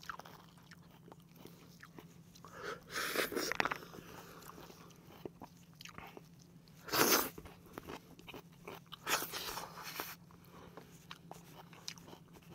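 Close-miked chewing and crunching of chicken and lettuce salad, in a few louder crackly bursts about three, seven and nine seconds in, with small mouth clicks between.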